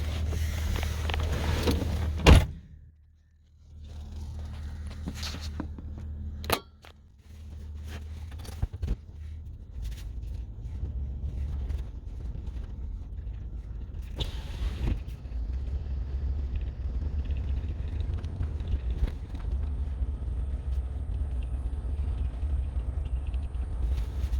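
A sharp bang about two seconds in, like a truck door shutting, followed by a short lull. A truck then runs with a steady low rumble, with scattered clicks and rattles over it.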